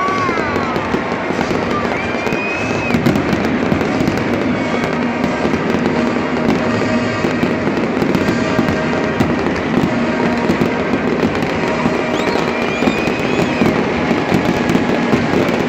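Fireworks going off in a dense, continuous crackle, many small pops in quick succession with no single big boom standing out.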